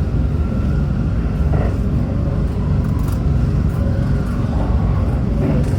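Hanshin Railway electric train running between stations, heard from inside a passenger car: a steady, loud low rumble of wheels on rail and running gear.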